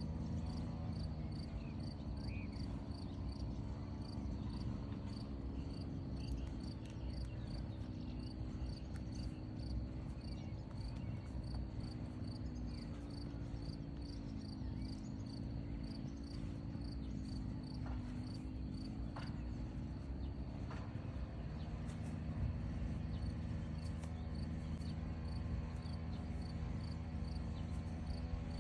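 Crickets chirping in an even rhythm, about two chirps a second, over a low steady hum that dips slightly in pitch midway.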